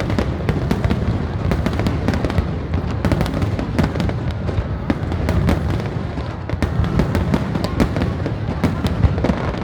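Fireworks display: many sharp bangs in quick succession, one after another throughout, over a continuous low rumble.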